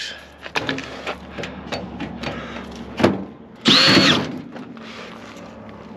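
Power drill backing screws out of a microwave oven's sheet-metal case: a short, loud, high-pitched whir of the motor about four seconds in, amid scattered clicks and metallic clatter.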